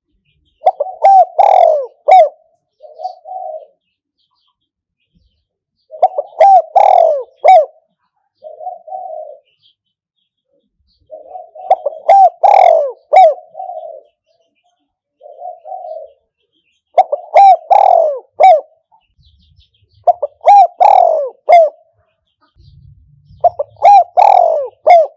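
Spotted dove cooing: a phrase of several quick coos every five or six seconds, each followed by a shorter, softer coo. It is a caged decoy's call, used to lure wild doves.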